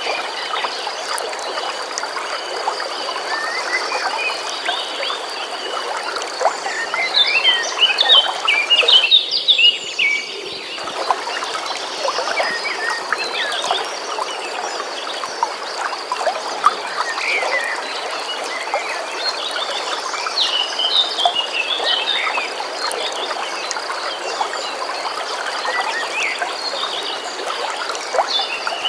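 Birds singing in short chirps and trills over the steady rush of a flowing stream, with a constant high trill beneath them. The water sound drops out for about two seconds some nine seconds in.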